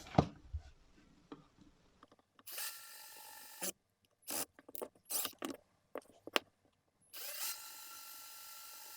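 Electric drill boring holes into a soap dispenser's plastic casing: two runs with a steady whine, about a second long and then about two seconds near the end, with clicks and knocks in between.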